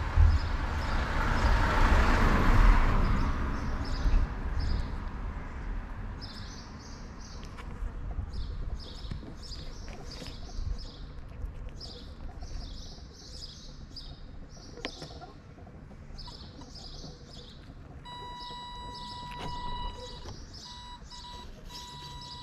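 Small birds chirping over and over in short high calls. Muffled rubbing close against the microphone in the first few seconds is the loudest sound, and a steady high electronic whine comes in near the end.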